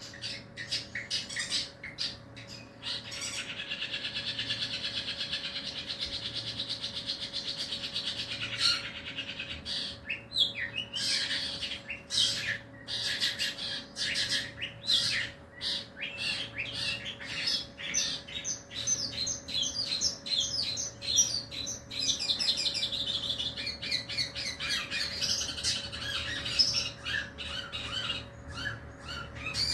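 Long-tailed shrike (cendet) calling and singing: a long, even rapid trill, then harsh chattering notes and quick runs of short calls.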